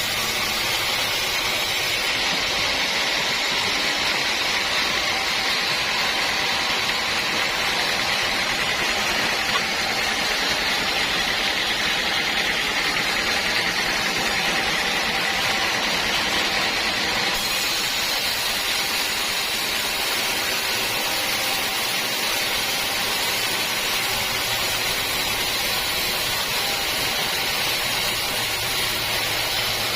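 Sawmill saw running steadily through teak wood, a continuous hissing whine. Its tone shifts about two seconds in and again after about seventeen seconds.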